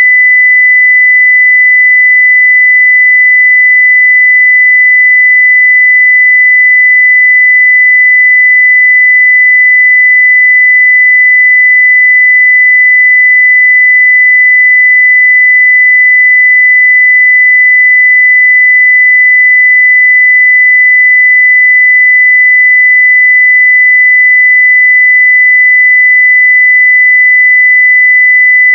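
Steady 2 kHz sine-wave test tone at full level (0 dB), one pure unbroken pitch.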